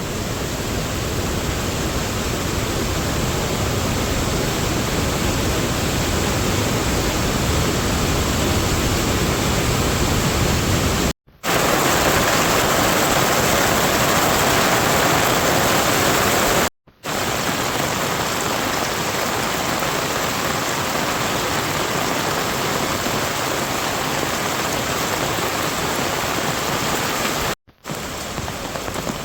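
Steady hiss of rain falling, with no distinct drops or other sounds standing out. The sound drops out three times for a split second, and the stretch between the first two dropouts is the loudest.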